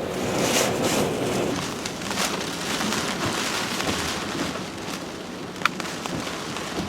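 Typhoon wind and rain: a steady noisy rush that swells and eases in gusts, with one sharp knock about five and a half seconds in.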